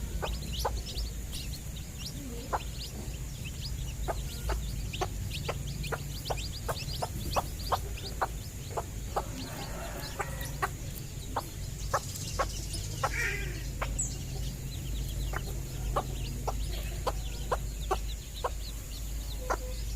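Hen and chicks clucking, with many short sharp ticks, several a second, over a steady low hum.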